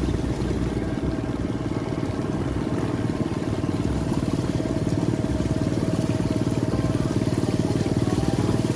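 Small motorcycle engine running steadily at low speed, heard from the rider's seat, growing slightly louder from about halfway through.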